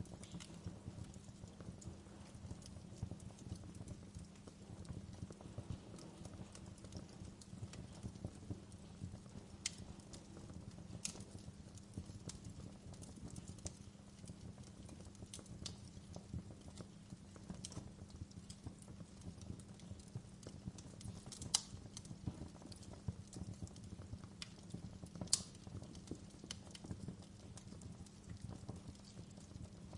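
Wood fire burning: a steady low rumble with irregular crackles and small pops throughout, two louder pops a little past the middle.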